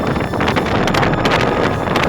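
Strong wind buffeting the microphone: a loud, continuous rush with gusty low rumble and crackle.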